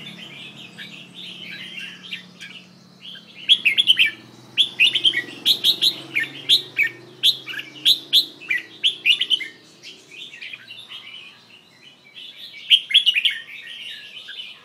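Red-whiskered bulbul singing bursts of short, chirpy whistled phrases, falling quiet for about two seconds near the end before singing again.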